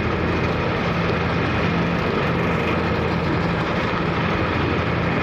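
Car ferry's engine running with a steady low drone and a constant hum, over an even rushing noise.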